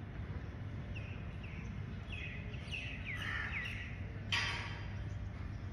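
Small birds chirping in short, quick falling calls over a steady low background rumble, with one short harsh burst of sound about four seconds in.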